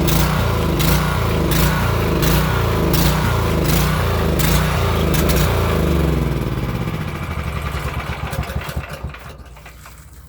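Small pressure-washer gasoline engine running with a regular beat about every 0.7 s, then about six seconds in it winds down, firing more and more slowly until it stops. It is being shut off by grounding its ignition kill wire to the frame.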